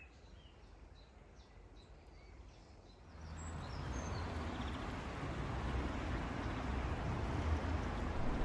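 Faint birdsong, a few short chirps, over quiet surroundings. About three seconds in, a steady rushing noise starts suddenly and grows slowly louder.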